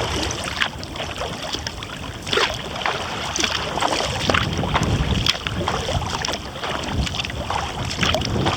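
Kayak paddle strokes: the blades dip and splash with many small watery splashes and drips. Under them is a steady low rumble of wind on the microphone.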